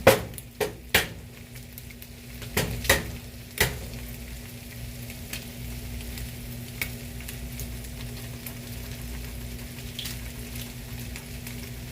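About six sharp taps and clicks in the first four seconds, an egg being cracked against the bowl, over the steady sizzle of turkey bacon frying in a pan.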